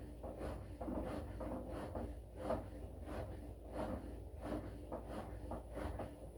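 Washing machine partway through its wash cycle: the drum turning with a steady low hum while the wet laundry and water slosh in soft swishes a few times a second.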